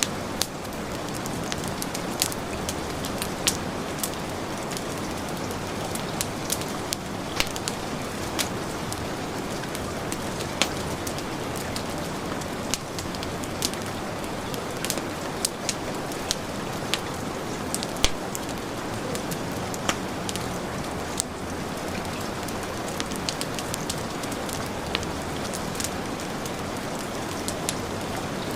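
Heavy rain falling steadily, mixed with a wood fire crackling, with frequent sharp pops.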